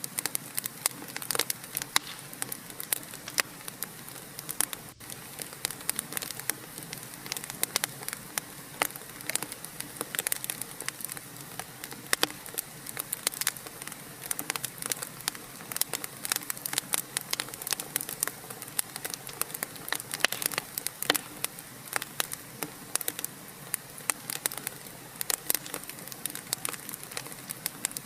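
Wood fire crackling, with frequent irregular sharp pops and snaps over a steady soft hiss.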